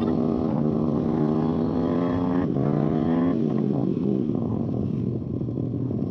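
YCF pit bike's single-cylinder four-stroke engine, spark arrestor removed, running under way as it is ridden. The pitch climbs steadily for about three seconds, drops sharply, then runs lower and unevenly with the throttle.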